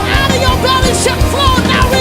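Worship band music: a steady drum beat and bass under a melodic lead line that bends in pitch.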